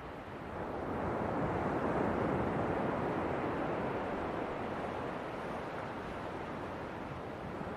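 Ocean waves breaking on a shore, a steady wash of surf that swells about a second in and then slowly eases off.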